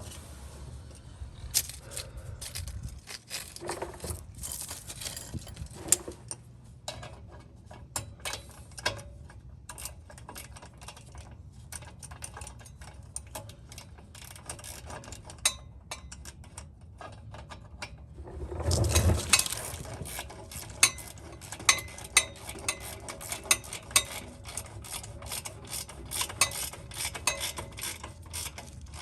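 Hand ratchet wrench clicking in short runs while nuts and bolts on an exhaust test pipe are being worked, with scattered tool clinks; a louder clatter about nineteen seconds in.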